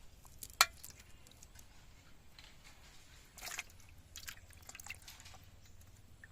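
Water dripping and splashing, with a sharp click about half a second in and a short splash a little past the middle.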